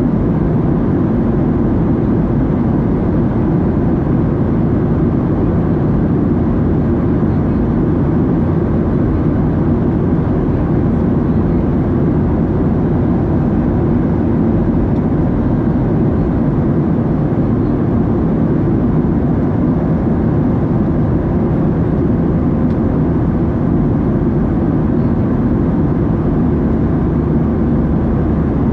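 Steady cabin noise of a Boeing 737-700 in flight, heard from inside the cabin: the constant drone of its CFM56-7B engines and airflow over the fuselage, strongest in the low range and unchanging throughout.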